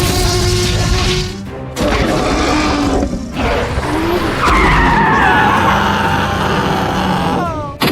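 Background music mixed with cartoon sound effects of a vehicle and skidding tyres.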